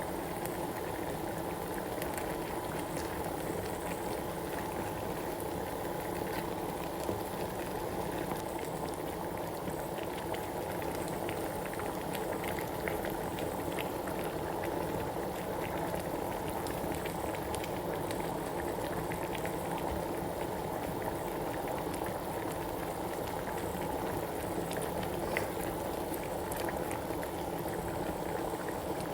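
Pot of chicken and plantain pepper soup boiling steadily, with a continuous bubbling and scattered small pops.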